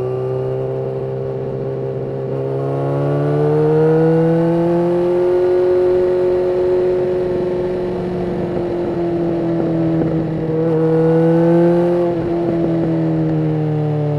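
Yamaha FZ6N inline-four motorcycle engine with a Two Brothers aftermarket exhaust, running under way. The engine note climbs a few seconds in, holds, sags, climbs again and then falls off near the end as the rider opens and closes the throttle.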